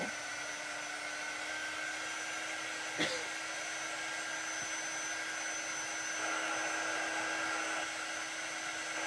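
Small handheld electric dryer blowing air steadily, with a steady motor hum, drying freshly coloured paper cutouts. A brief tap sounds about three seconds in.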